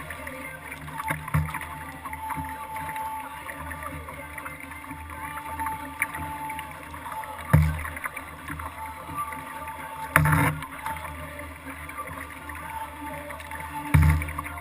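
Water and hull noise on a kayak, picked up by a camera mounted on the boat: a steady low rumble and wash. Four loud short thumps land about 1.5, 7.5, 10 and 14 seconds in.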